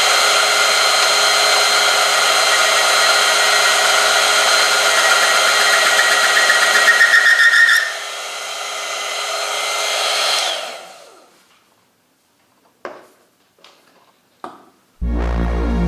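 Oil film strength test machine running loud: an electric motor drives a steel sample rubbing in oil, with a rising squeal of metal on metal as the load builds. About eight seconds in the sound drops, and the machine winds down to a stop by about eleven seconds, the stall that ends the loaded test. A few light knocks follow, then music starts near the end.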